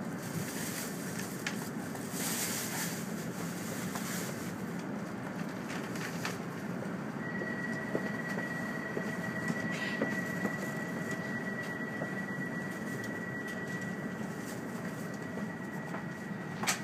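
Steady low running noise inside an E2 series Shinkansen car standing at a platform, from its onboard equipment and ventilation. About seven seconds in, a steady high tone comes in and holds, with a few faint clicks.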